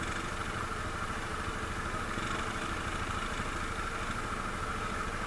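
ATV engine running steadily at idle, with no revving.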